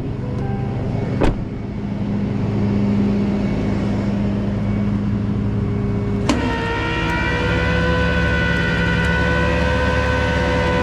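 Tow truck engine running at raised idle to drive the hydraulics. A sharp click comes about a second in and another about six seconds in, after which a steady whine joins the engine.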